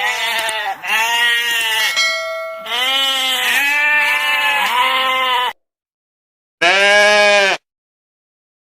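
Sheep bleating: several wavering bleats overlap for about five and a half seconds and stop abruptly, then after a pause a single bleat sounds near the end.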